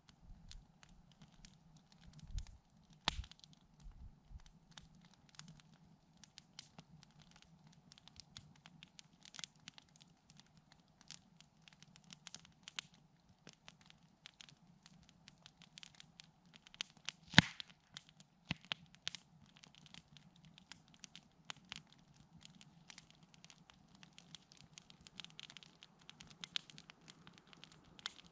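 Wood campfire crackling, with irregular snaps and pops and one sharp pop about seventeen seconds in. A few soft low thuds come in the first few seconds.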